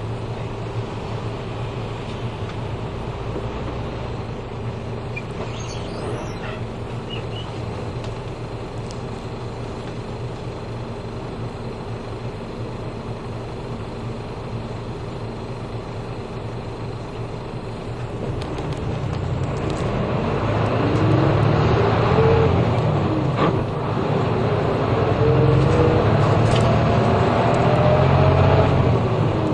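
City bus's diesel engine heard from inside the cabin, idling steadily at a stop. About two-thirds of the way in it revs up as the bus pulls away. The pitch rises, drops briefly at a gear change, and rises again.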